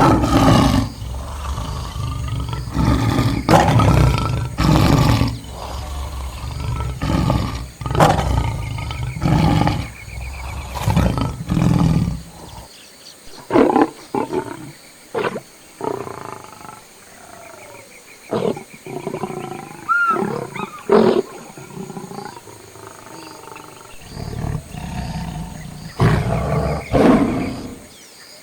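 Lions roaring and growling: a run of loud, deep calls over the first twelve seconds or so, then shorter, sparser calls with quiet gaps, and one more loud call near the end.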